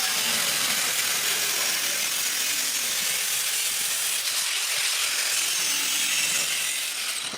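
A power tool cutting a piece of steel for a chassis repair patch: a steady, loud, high hiss that stops shortly before the end.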